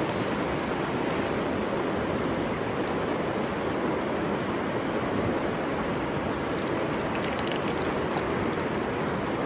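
River water flowing steadily, an even rushing noise, with a few faint ticks about seven to eight seconds in.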